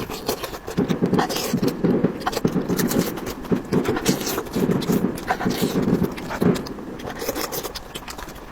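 Close-miked eating sounds: wet chewing in bursts about twice a second, with many sharp mouth clicks and smacks.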